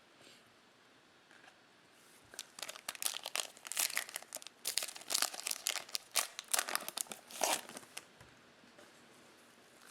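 Foil wrapper of a Topps Chrome trading-card pack being torn open and crinkled: a run of dense crackling from about two seconds in to about eight seconds.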